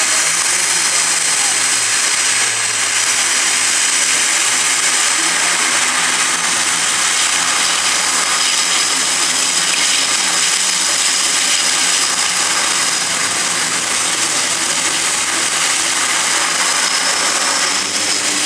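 Military aircraft's turbine engines running, a loud, steady rushing noise with a faint high whine through it.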